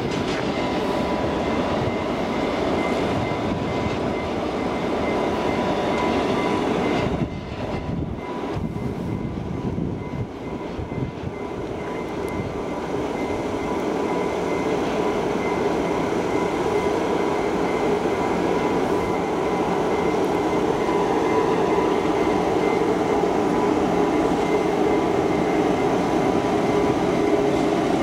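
Freight train with a Green Cargo Rc electric locomotive: a steady rumble of the train on the rails with a steady high electrical hum. It dips briefly a few seconds in, then grows louder as the locomotive comes close.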